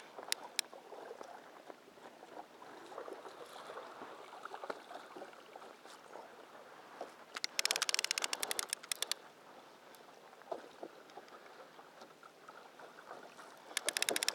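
Water lapping and sloshing around a small fishing boat, with a fishing reel giving a fast run of clicks for about a second and a half a little past halfway, and again just before the end, as a hooked mahi-mahi is played.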